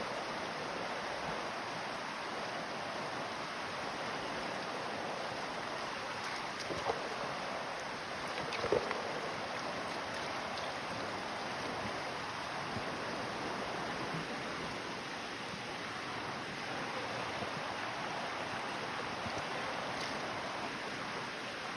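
Creek water flowing steadily, with a couple of brief small splashes or knocks about seven and nine seconds in.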